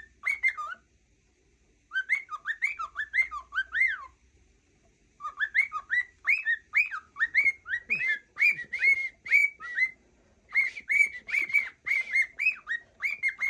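Cockatiel whistling and chattering, fast runs of short notes that swoop up and down, in four bursts with short pauses between.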